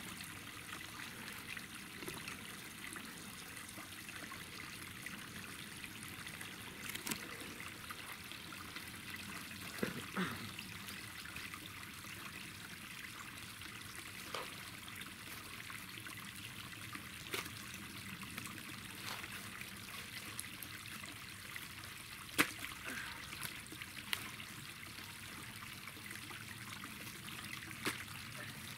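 Water trickling steadily through a leak in a small dam, with a few short sharp knocks or splashes scattered through it.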